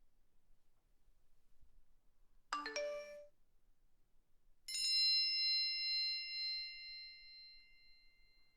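Two phone alert tones. About two and a half seconds in comes a short, quick chime of a few notes. About two seconds later a bright bell-like ding starts and rings on, fading away over several seconds.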